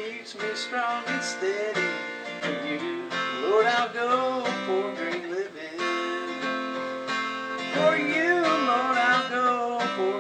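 Strummed acoustic guitar with a singing voice carrying the melody.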